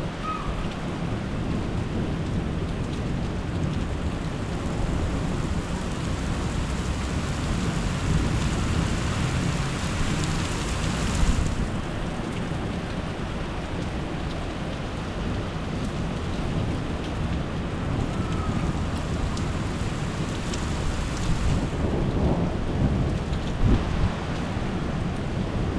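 Rain falling steadily with low rolling thunder rumbling underneath throughout. For a few seconds before the middle the rain hiss grows brighter, then drops back suddenly.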